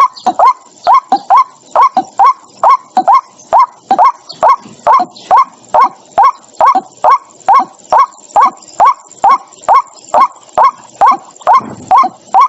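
White-breasted waterhen calling: short hoarse notes, each hooking up in pitch, repeated over and over about two to three a second, with some notes coming in quick pairs. A clean decoy recording of the call used on bird-trapping speakers.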